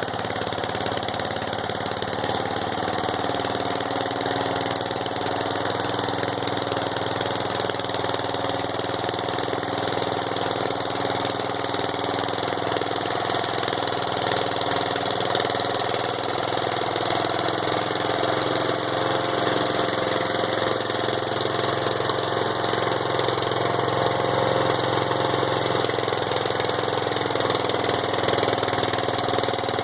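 Riding lawnmower engine running steadily while the mower is driven, nearly out of fuel. It gets slightly louder near the end.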